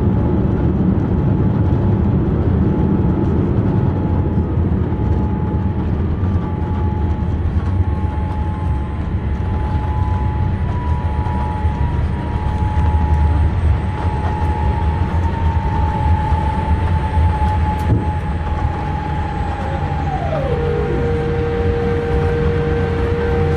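Cabin noise aboard a Boeing 787-8 Dreamliner during landing: a heavy low rumble under a steady whine. A second whine slides slowly down in pitch and drops to a lower steady tone about 20 seconds in.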